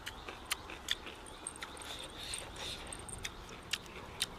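Chewing and biting crispy fried chicken, with scattered short crunches and clicks from the crust and the meat being torn.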